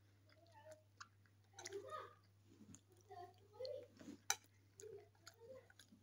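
Faint close-up chewing and wet mouth smacks as a person eats rice and chicken, with a sharp click about four seconds in.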